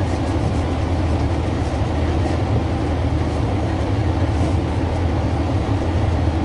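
Fishing boat's engine running steadily with a low drone.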